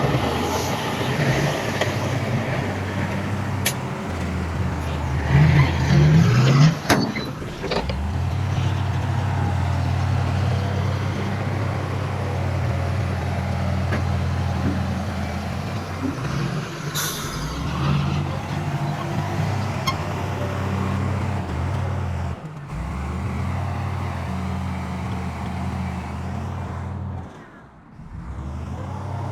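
Heavy diesel engine of earthmoving machinery running steadily, revving up briefly about six seconds in, with a few short sharp sounds over the drone.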